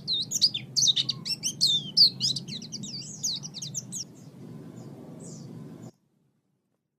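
Songbird singing a fast, varied run of high chirps and whistles over a low steady hum. The song thins out about four seconds in, and the sound cuts off abruptly about six seconds in.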